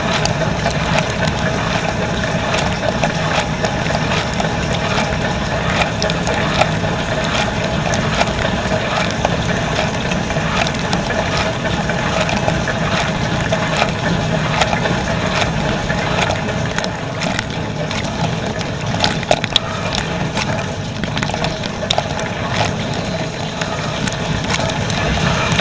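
Dishwasher running a wash cycle, heard from inside the tub: a steady rush of spraying water over the pump's hum, with many small clicks and rattles.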